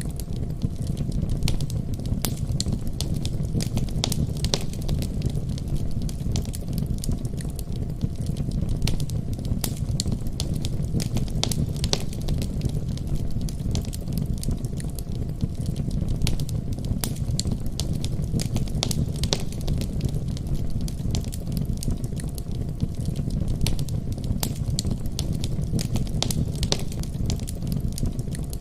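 Wood fire burning in a fireplace: a steady low rumble of flames with frequent irregular crackles and pops throughout.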